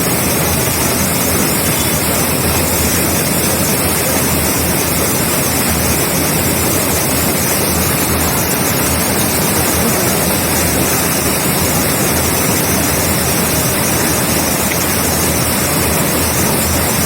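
Rainwater rushing over a large dam: loud, steady water noise that does not change.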